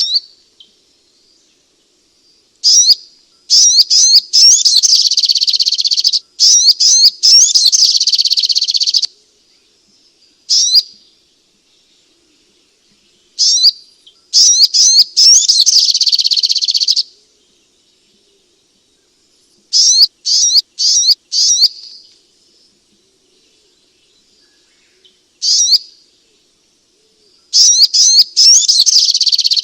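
Sunbird song: phrases of rapid, high twittering chirps, each lasting one to three seconds, with short silent pauses between them.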